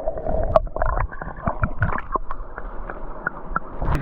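Muffled water splashing and gurgling in a river, with irregular small knocks and clicks, as a landed fish is released by hand.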